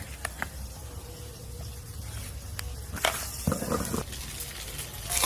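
Quiet kitchen sounds under a low steady hum: a few light clicks and knocks of utensils, and a short scrape about three and a half seconds in.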